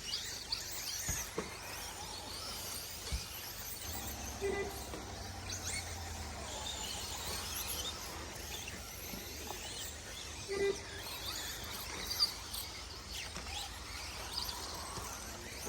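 Distant 1/10 scale RC short course trucks running around an outdoor dirt track: faint high whines that rise and fall in pitch, with a few sharp clicks and knocks.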